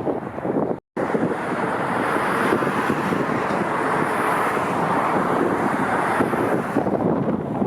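Wind buffeting the camera microphone over a steady rushing noise that swells through the middle. The audio cuts out completely for an instant just before a second in.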